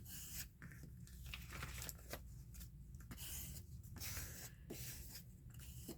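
Paper being cut around a glued-on book-page picture: a run of faint, irregular crisp paper rasps and rustles.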